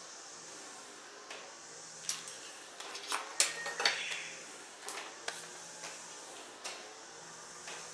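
Light metallic clinks and knocks of small metal objects being handled and set down, with a quick cluster of sharper clinks between about two and four seconds in.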